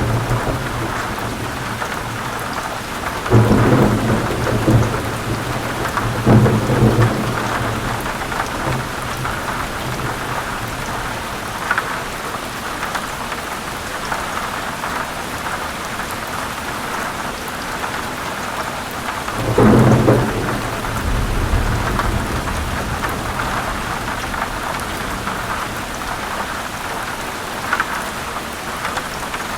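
Heavy rain pouring steadily, with rolls of thunder rumbling through it: one about three seconds in, another around six seconds, and a longer one near twenty seconds.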